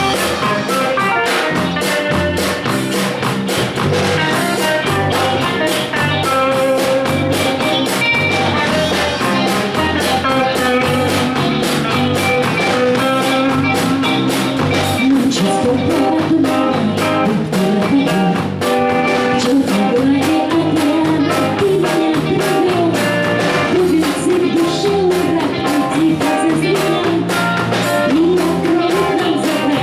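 Live pop song with guitar and a steady drum beat; a woman's singing voice comes in about halfway through.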